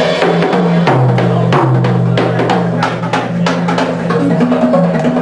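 Live drum music: a stream of irregular drum strikes over low held notes that step up and down in pitch.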